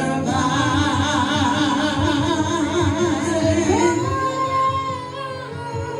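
Gospel praise team singing with musical backing: a voice holds and ornaments a long note with wavering vibrato, then glides up to a new held note about four seconds in.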